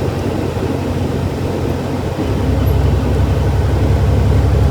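Diesel engine of a 2000 Freightliner FLD 112 semi-truck running, heard from inside the cab as the truck slows down. About two seconds in the engine note grows louder into a strong, low drone.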